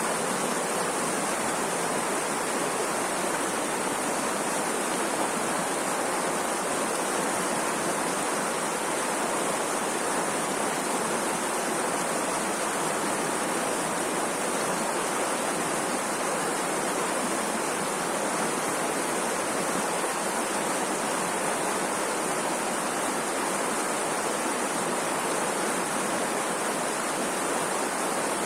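Rushing water, like a stream or waterfall, making a steady, unchanging hiss with no separate splashes or other events.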